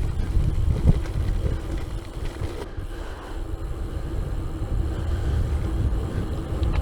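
Romet Aspre 2 gravel bike rolling along: wind buffeting the microphone over a steady low rumble of tyres and bike, with a few short knocks from the bumps.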